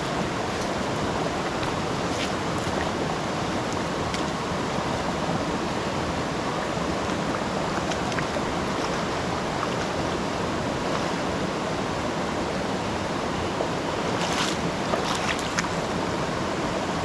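River water rushing steadily, with a few brief splashes near the end.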